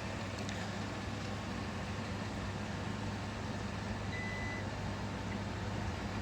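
Several robot vacuums running together: a steady motor hum and brush whir, with one short high beep about four seconds in.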